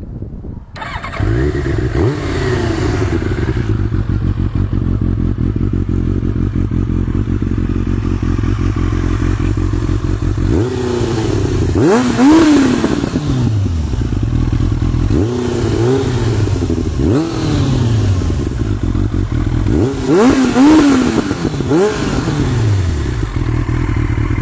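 Kawasaki Ninja 750cc inline-four engine in a Banshee quad, coming in suddenly about a second in and running at idle. It is revved in short throttle blips several times, the pitch rising sharply and falling back to idle each time.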